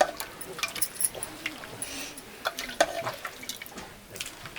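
Irregular small clicks and clinks of dishes and eating utensils during a family meal of rice, some light and some sharper.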